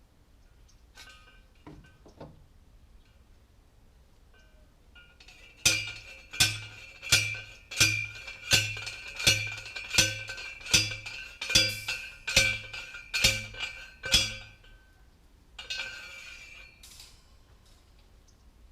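About a dozen evenly paced metal-on-metal blows, roughly one and a half a second, each leaving a short metallic ring: a steel T-post being pounded.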